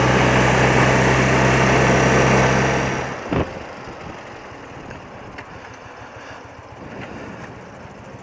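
Old BMW motorcycle engine running steadily under road and wind noise, which drops off sharply about three seconds in; a short knock follows, then a much quieter steady hum with a few faint ticks.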